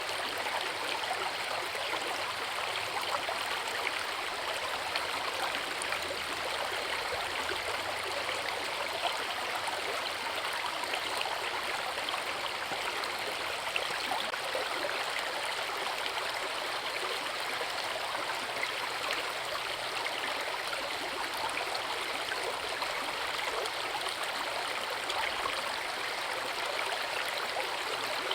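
Forest river rushing over rocks and a small waterfall, a steady even splashing and gurgling with no change.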